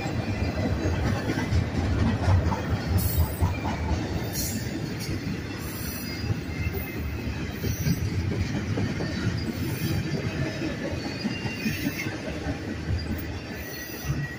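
Union Pacific double-stack intermodal train rolling past: steel wheels on rail making a steady rumble with rapid clicking. The sound fades near the end as the last cars go by.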